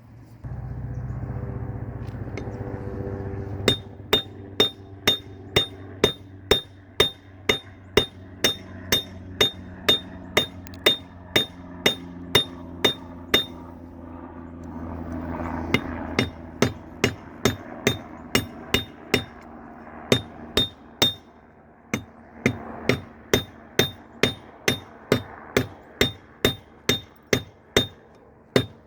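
Hammer blows forging a steel railroad spike on an anvil, about two strikes a second with a ringing ping at each blow. The strikes begin a few seconds in over a steady hum and pause briefly about two thirds of the way through.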